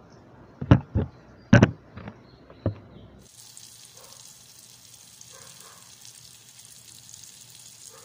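A few sharp knocks and clatters, then from about three seconds in a steady sizzle of an egg-and-flour-coated eggplant omelette (tortang talong) frying in oil in a pan.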